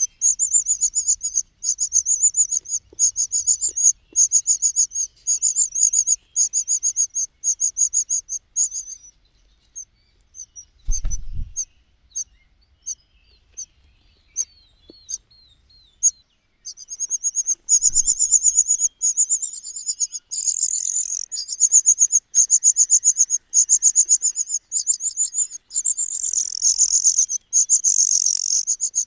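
Nestlings begging with rapid, high-pitched chirping calls that mostly stop for several seconds in the middle, leaving a few scattered chirps, then resume. Two soft thumps are heard, one about eleven seconds in and one near eighteen seconds.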